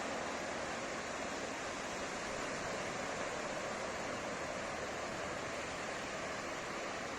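Ocean surf on a beach: a steady wash of breaking waves without distinct single crashes.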